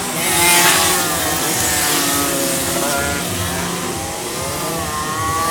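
Car engines revving and accelerating, their pitch rising and falling, with more than one engine heard at once; loudest about half a second in.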